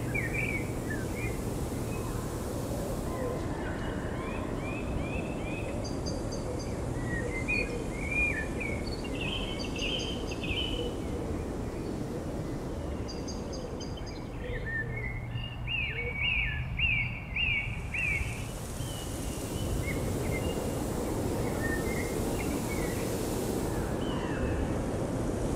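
Several birds calling, with short chirps and quick rising-falling notes in repeated bursts, over a steady low background rumble.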